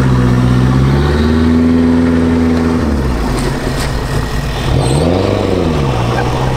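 Saturn Sky's four-cylinder engine accelerating with the top down: its pitch climbs for about two seconds, holds, drops off about three seconds in, then rises and falls once more before settling to a steady note.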